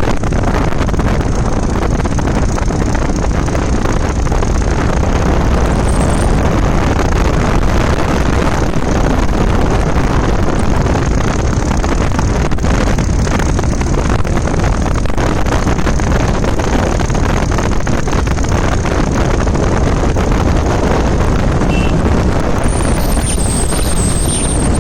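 Steady, loud rush of wind over the microphone of a moving motorbike, with the bike's running noise underneath. A brief high, thin tone sounds near the end.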